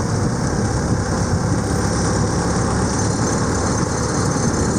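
Boat engine running steadily under way, with rushing wind and water noise over the microphone.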